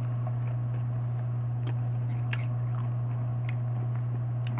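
Chewing a crunchy pickled cornichon, with a few crisp crunches. A steady low hum runs underneath.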